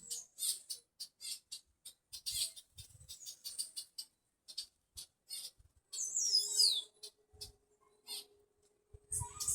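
Several birds chirping in a breadfruit tree: rapid, short, high chirps, with a louder call that sweeps downward about six seconds in.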